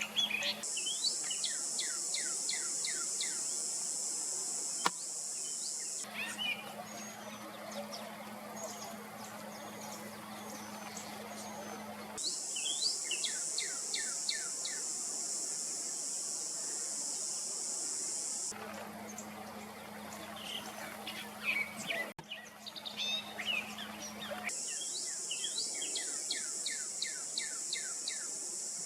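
Northern cardinal singing runs of quick, repeated down-slurred whistles, about two notes a second, with a steady high buzz of insects behind it. The song and buzz come in three bouts, separated by stretches of mixed rustling and other bird calls.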